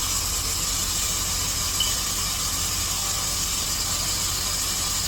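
Steady hiss of a pneumatic cooling-system vacuum refill tool on a 2010 Chrysler 300's radiator, drawing the evacuated system back full of coolant, until it cuts off suddenly at the end.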